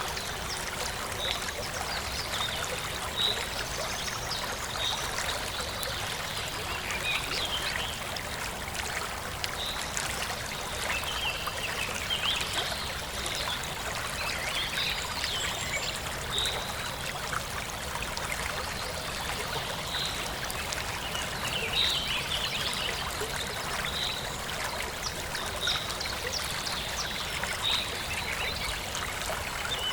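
Forest stream running and trickling steadily, with birds chirping repeatedly throughout.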